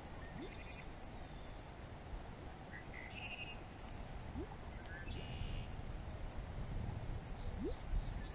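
Four short, harsh bird calls spread over the few seconds, over a steady low rumble of wind on the microphone.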